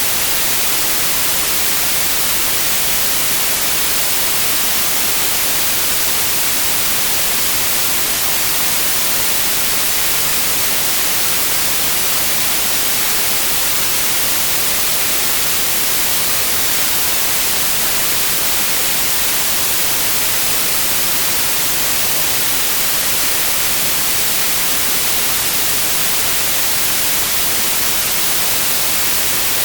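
White noise: a steady, even hiss with no change.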